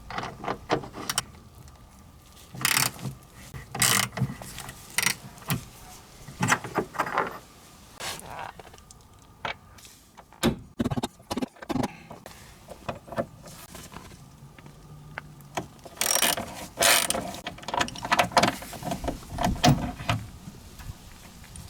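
Hand-tool work on a car: irregular metallic clicks, knocks and short scrapes, some in quick clusters.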